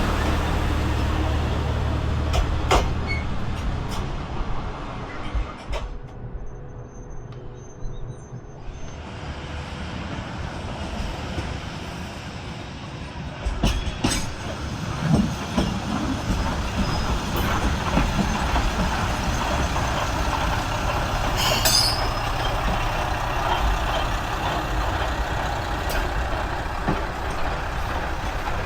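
Diesel railcar running at a station platform, its engine hum dropping away a few seconds in and building again, with clicks and a brief hiss of air about two-thirds of the way through.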